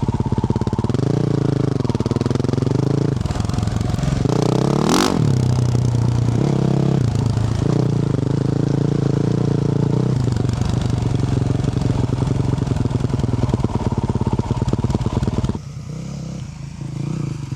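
A 2024 Yamaha YZ450F's single-cylinder four-stroke engine, running through a Yoshimura RS-12 exhaust as the bike is ridden, with the revs rising and falling. A sharp rev goes up and drops back about five seconds in, and the engine settles to a quieter, lower note near the end.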